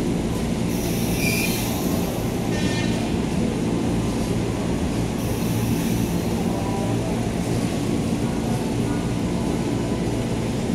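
KAI passenger train coaches rolling along a station platform as the train arrives: a steady rumble of wheels on the rails, with a short high squeal about two to three seconds in.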